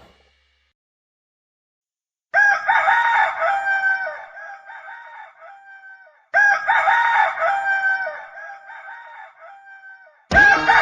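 A rooster crowing twice, two long cock-a-doodle-doos about four seconds apart, after a brief silence. Music starts just before the end.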